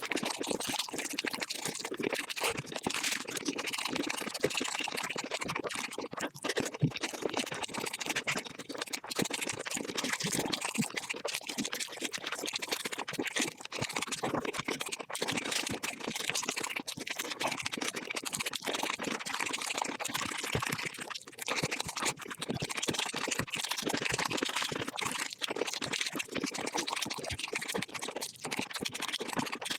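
Close-up eating sounds of someone chewing and crunching chicken, played back at five times speed: a dense, unbroken stream of clicks and crackles.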